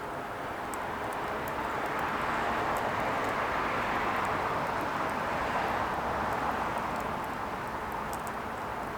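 Firewood burning with scattered sharp crackles and pops. Under it a steady rushing noise swells in the middle and fades again.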